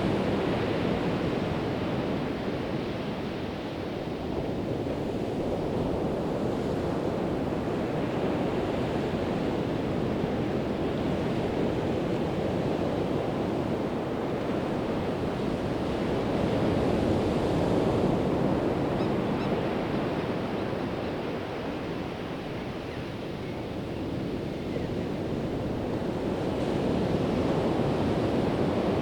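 Pacific Ocean surf: a steady wash of breaking waves that swells louder and eases off, loudest near the start, about two-thirds of the way through, and near the end.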